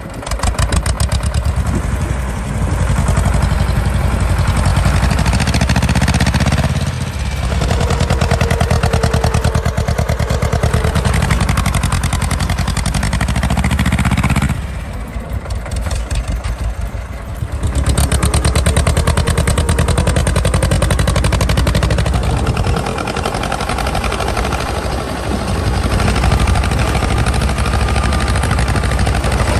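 A tractor engine running hard with a fast, even firing beat. It eases off briefly about a quarter of the way in, then for a few seconds around the middle, before coming back up.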